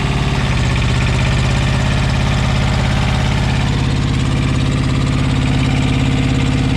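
A semi truck's APU, a small auxiliary diesel engine, running steadily and really loud, warming up on a freshly replaced radiator with its coolant fan not yet on. Its note shifts slightly about half a second in.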